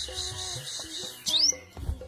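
Black-breasted sogon bird calling: a harsh, hissing chatter for about the first second, then a quick rising whistle, over background music.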